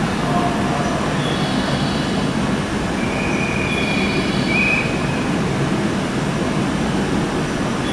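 A train running at the platform with a steady rumble, and brief high-pitched wheel or brake squeals about a second and a half and three seconds in.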